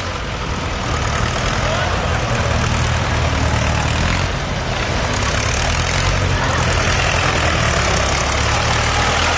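Tractor diesel engines running with a steady low drone, a little louder after the first second.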